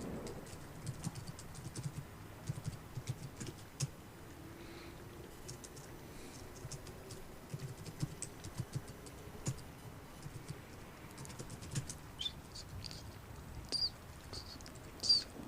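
Soft, irregular clicks and taps over a steady background of rain and city ambience, with a few short high chirps near the end.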